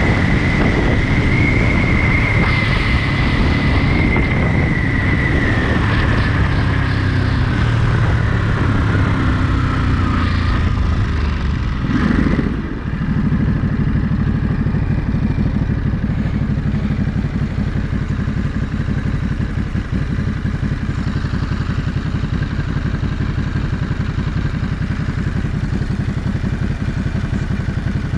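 Ducati Monster 937's L-twin engine running on the move. A high whine slowly falls in pitch over the first ten seconds. About twelve seconds in the sound briefly dips, then the engine note settles and runs steadily.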